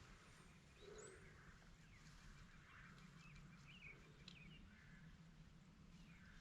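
Faint, scattered chirps and short whistled notes of small songbirds over a quiet outdoor background with a low steady rumble.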